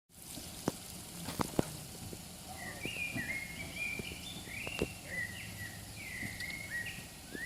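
Birds singing, a short stepped phrase repeated over and over, with three sharp clicks or knocks in the first couple of seconds.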